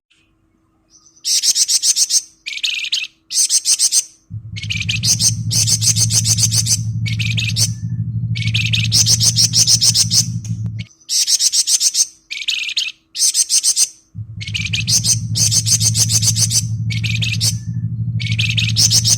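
Flamboyan bird (scarlet minivet) singing in repeated fast, rattling high trills ('ngebren'), each phrase one to two seconds long with short gaps between. A low steady hum runs under the song from about four seconds in, breaking off for a few seconds in the middle.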